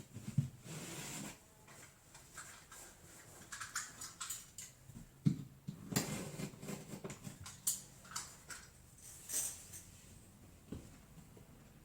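Irregular light rustles and clicks of handling as self-adhesive fiberglass mesh drywall tape is pulled from its roll and pressed over a wall patch.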